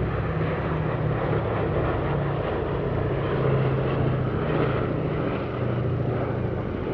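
Boeing B-17G Flying Fortress flying past, its four Wright Cyclone radial engines running with a steady, deep propeller drone.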